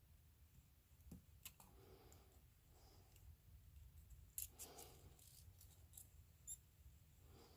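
Faint, scattered small clicks and brief rustles from handling a soldering iron and pickguard wiring, over a low steady room hum.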